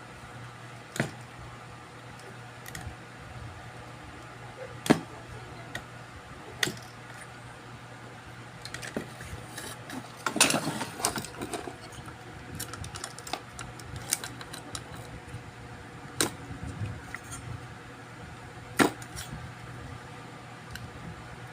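Scattered sharp clicks and taps of small tools being handled on a repair bench, with a longer stretch of clattering and rustling about halfway through, over a steady low hum.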